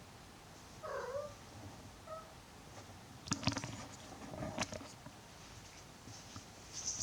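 A cat gives a short meow about a second in and a brief chirp about a second later. It is followed by two clusters of quick knocks and rustles in the middle.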